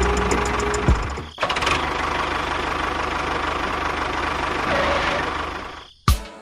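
A motor running steadily with a brief break about a second and a half in. It fades out near the end, and struck musical notes begin.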